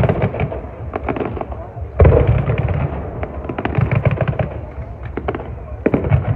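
Fireworks display: a rapid, irregular run of cracks and bangs from bursting shells, with a heavy bang about two seconds in and another dense cluster near the end.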